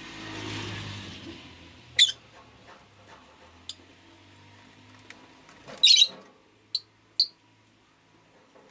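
Rosy-faced lovebird giving short, sharp, high chirps: single calls about two seconds in, a louder quick cluster around six seconds in, and two more soon after. In the first second and a half a soft swell of background noise with a low hum rises and fades.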